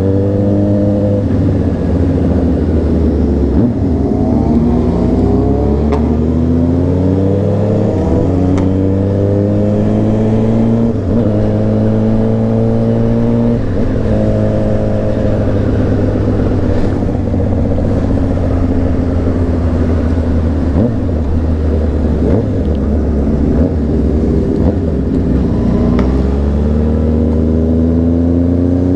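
Honda CBR600RR inline-four motorcycle engine under way, accelerating with its pitch climbing and then dropping at each gear change, several times over.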